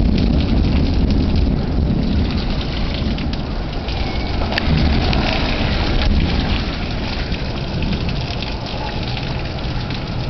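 Heavy rain pouring steadily during a thunderstorm, with a low rumble of thunder underneath.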